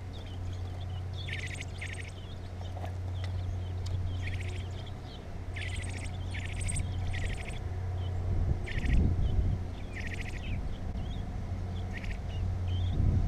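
Baby birds chirping in short bursts of rapid, high notes, about a dozen bursts spread irregularly, over a steady low hum with a low rumble swelling about nine seconds in.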